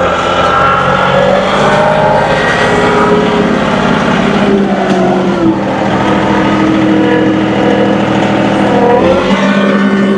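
John Deere 2038R compact tractor's three-cylinder diesel engine running under load, its pitch dropping about halfway through and dipping again near the end before picking back up.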